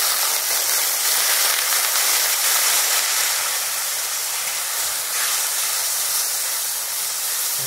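Ground spice paste (masala) sizzling loudly in hot oil in a metal kadai as it is stirred with a flat spatula: a steady frying hiss.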